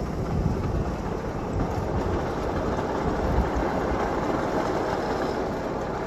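7.5-inch gauge ride-on miniature freight train running along the track: a steady rumble of the wheels on the rails.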